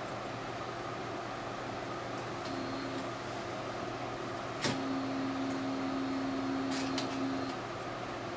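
Inkjet printer mechanism running: a click about halfway through, then a steady motor hum for nearly three seconds with two more clicks near its end, as the print head carriage and maintenance station move during the printer's startup cycle.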